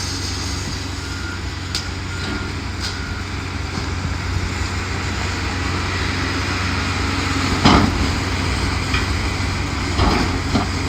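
Heavy demolition machine's engine running steadily, with three short backup-alarm beeps in the first few seconds. A loud crash of debris comes about three-quarters of the way through, followed by a smaller knock.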